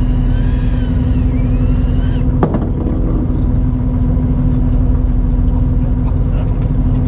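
A fishing boat's engine running steadily with a low hum. A high whine with sliding pitch stops about two seconds in, followed by a single knock.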